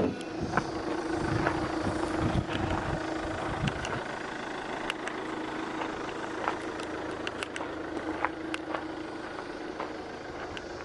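A Winstorm SUV's idling engine stops with a sharp clunk. The low rumble shudders away over the next few seconds, leaving a steady hum and scattered light clicks.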